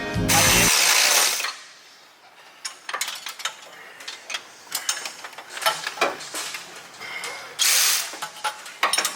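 Ratchet wrench clicking in short irregular runs, with small metal tool ticks. There is a loud hissing whoosh in the first second and a shorter hiss near the end.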